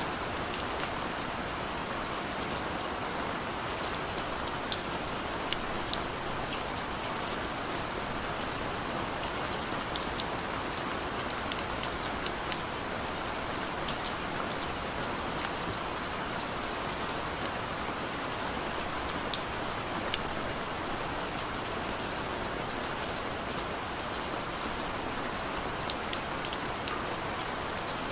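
Steady rain falling, an even hiss with many individual drops ticking sharply on a surface close by.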